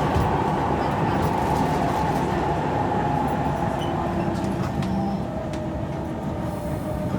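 Kawasaki C151 electric multiple unit running on the rails, heard from inside: steady wheel-on-rail rumble with faint traction motor tones. The level eases a little toward the end as the train slows on the approach to a station.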